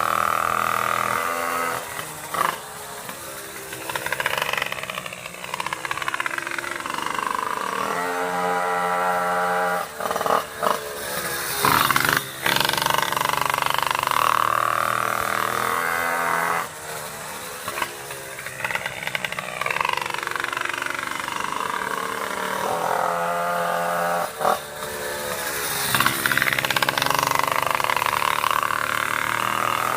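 Pocket bike's small two-stroke engine running hard around the track, its note rising and falling as it comes by twice, roughly every fourteen seconds. The new CS engine is being run in.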